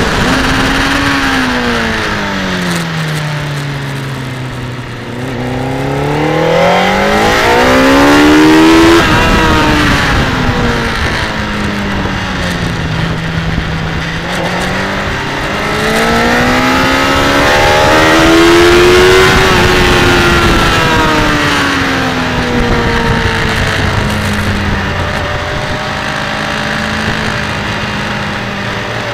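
Motorcycle engine heard from an onboard camera at racing speed, its note falling as it slows for a corner, then climbing hard to a peak about nine seconds in, falling again and climbing to a second peak near the middle, then settling lower, over steady wind rush.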